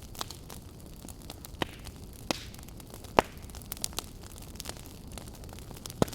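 Log fire burning: irregular crackles and sharp pops from the wood over a steady low rumble, the loudest pop about three seconds in.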